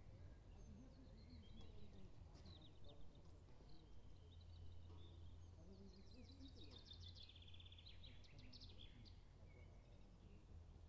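Faint birdsong from the woods: scattered high chirps, and in the middle one long rapid trill that falls in pitch over about three seconds. A low steady rumble lies underneath.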